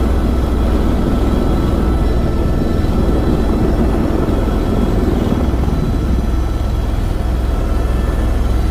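Tour helicopter's engine and rotor running steadily at take-off, heard from inside the cabin: a loud, even, low drone.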